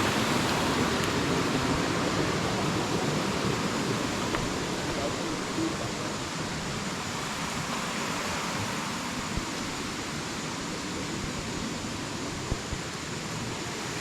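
Steady rushing of water over a small forest stream's rapids, an even hiss with no distinct splashes.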